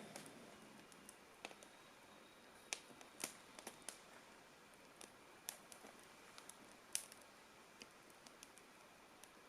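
Campfire crackling faintly, with scattered sharp pops at irregular intervals, a few louder than the rest.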